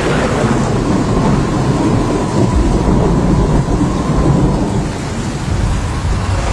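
Thunder rumbling on with rain falling, the low rumble swelling again about two and a half seconds in.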